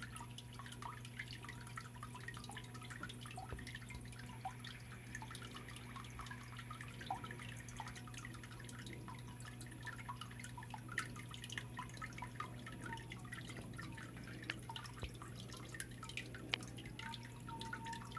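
Water from a small artificial waterfall in a ravine-style stone biotope pond, falling and dripping into the pool as a dense, steady patter of small droplet plinks and splashes, over a constant low hum.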